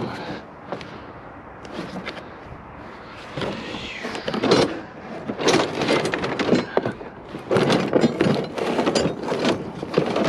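Scrap metal being handled and dragged about in a dumpster. Quiet for the first few seconds, then a dense run of irregular knocks, clanks and scraping.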